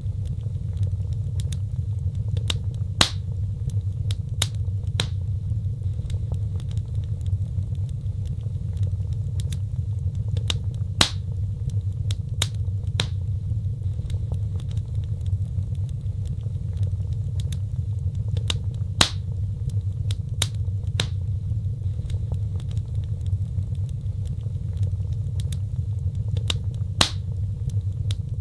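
Wood fire burning in a fireplace: irregular sharp crackles and a few louder pops over a steady low rumble of flames.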